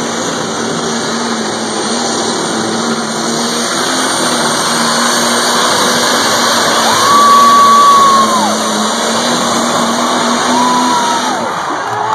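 A pulling truck or tractor's engine run at full power down the pull track, a loud, steady din that builds to its loudest about seven seconds in. A short high whistle-like tone rises and falls then, and a second one comes near the end.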